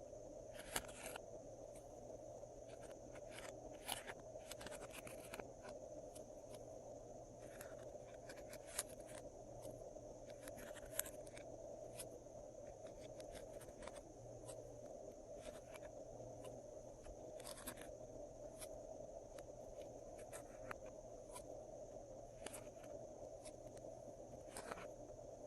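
Slime being mixed by hand: faint scrapes and short sticky clicks, irregular and a second or more apart, over a steady electrical hum.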